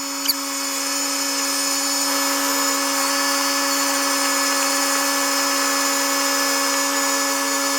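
A steady mechanical whine holding one pitch throughout, which cuts off suddenly at the end.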